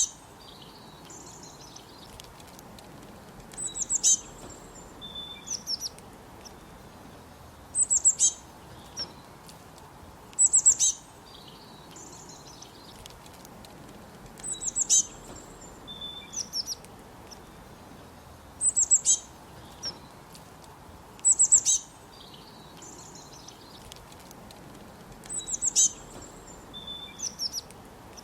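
Forest birds singing: a short burst of rapid, high notes repeats every two to four seconds, with softer, lower calls between the bursts. A steady low hiss sits underneath.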